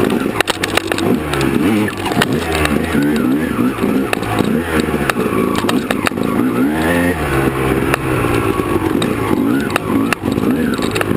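Honda CR250R two-stroke dirt bike engine revving up and down over and over as it is ridden hard over rough ground, with scattered sharp knocks.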